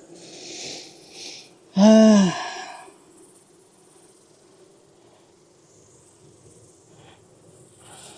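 A short grunt from the beekeeper about two seconds in, rising then falling in pitch, just after two brief hisses. Under it runs the steady low hum of the honeybees.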